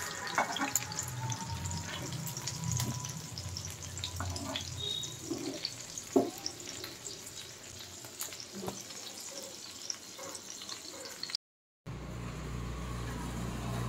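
Mutton chapli kebabs shallow-frying in hot oil in a pan: a steady crackling sizzle with a few sharper clicks. It cuts off suddenly near the end and gives way to a low steady hum.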